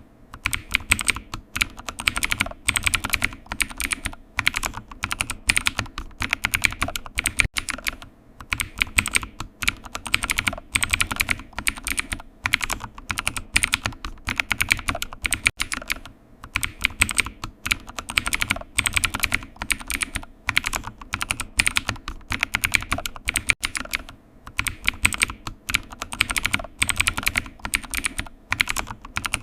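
Computer keyboard typing: quick, uneven runs of key clicks with short pauses between bursts.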